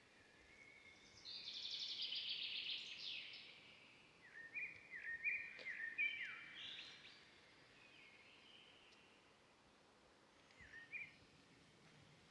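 Wild birds singing over a faint steady hiss. A rapid trill comes about a second in, then a run of short, downward-slurred whistled notes, and a brief call near the end.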